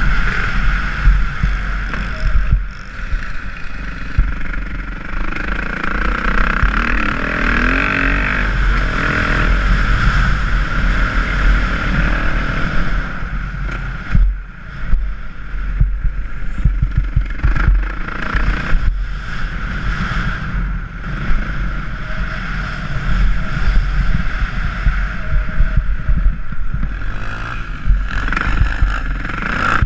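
Dirt bike engine riding a motocross track, revving up and easing off repeatedly, with a heavy low rumble underneath and a brief let-off about halfway through.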